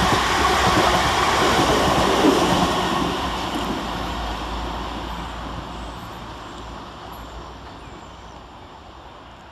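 Two coupled Class 444 Desiro electric multiple units passing fast through a station: loud wheel-on-rail and train noise that fades steadily from about three seconds in as the train draws away.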